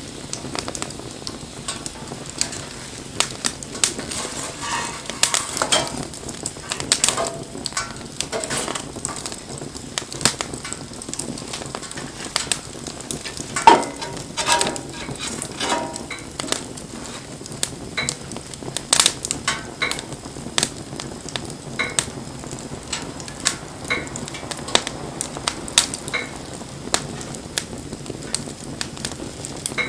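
Wood campfire crackling, with frequent sharp pops and snaps over a steady hiss, and short stretches of sizzling and whistling from the burning wood. The loudest pop comes about 14 seconds in.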